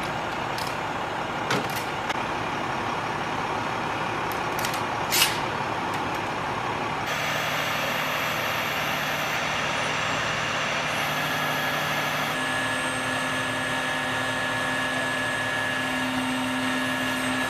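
Heavy machinery running steadily, with a few sharp clicks in the first half. About seven seconds in, the sound changes abruptly to a steadier machine hum with a held tone.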